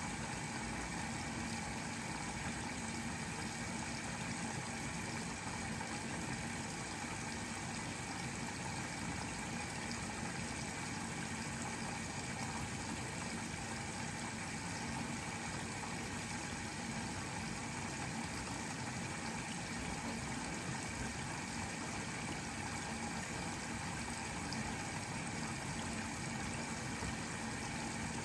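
Bosch Serie 4 front-loading washing machine running steadily partway through a 90-degree cotton cycle, a constant mechanical hum.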